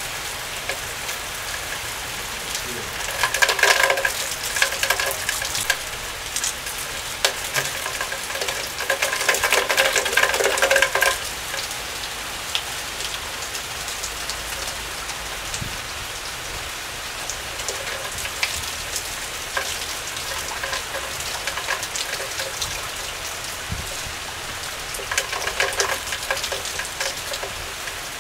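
Heavy rain falling steadily, a continuous crackling patter, with louder spells of a few seconds about three seconds in, around eight to eleven seconds in, and near the end.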